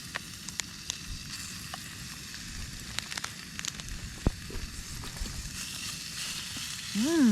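Yakiniku meat sizzling on a grill: a steady frying hiss with scattered pops and crackles. A brief voice sounds near the end.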